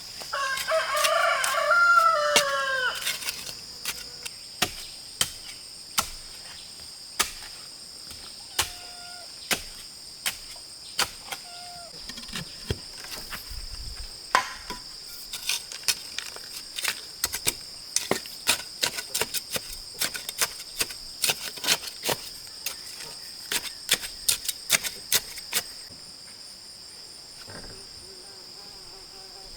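A rooster crows once, about a second in, over a steady high chirring of insects. Sharp knocks or taps come again and again, irregular and faster later on.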